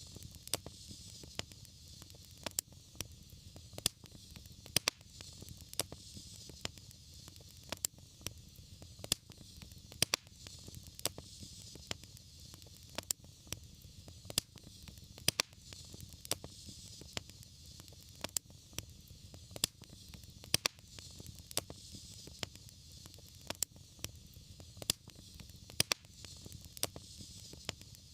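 Fireplace fire crackling, with sharp pops a few times a second over a steady soft hiss and low rumble.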